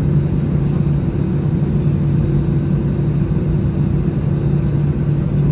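Steady drone inside the cabin of an Airbus A320 taxiing after landing, its CFM56 engines at idle, with a constant low hum.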